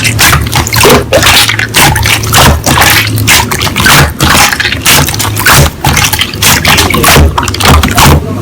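Slime being squeezed and pressed by hand: a fast, irregular run of wet squishing clicks and pops, several a second.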